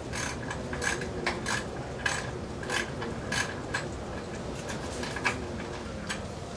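Hand-tool work on a Ford Taurus engine being lined up to its transmission: short metallic clicks, irregular and about one to two a second, with rubbing between them.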